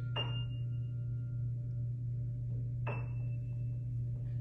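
Single high, bell-like notes picked out slowly on an instrument by a child learning to play: two notes about three seconds apart, each ringing on and fading, over a steady low hum.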